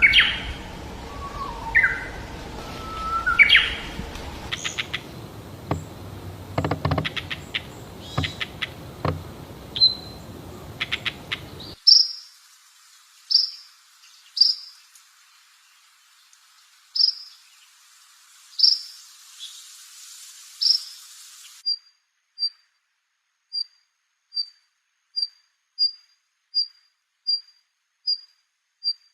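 Songbird calls from several recordings edited in succession. First, whistles and chirps over background noise; then, after a cut, separate high whistles that fall in pitch, every second or two; then short high pips about twice a second.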